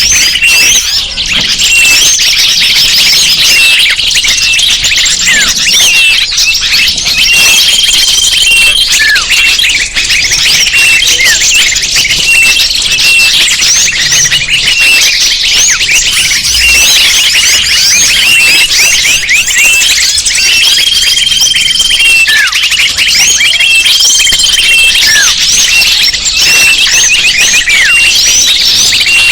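Dense chorus of many small birds chirping and twittering over one another, a bird-lure (pikat) recording, loud and unbroken, with a few short steady whistles now and then.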